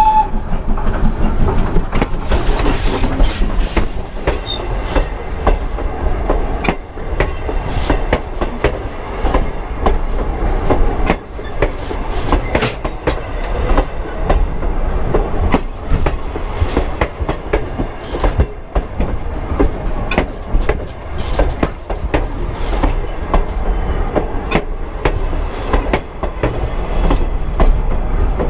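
Passenger train rolling directly over a microphone set between the rails: a steady low rumble with rapid, irregular clicking and clacking of the wheels on the track.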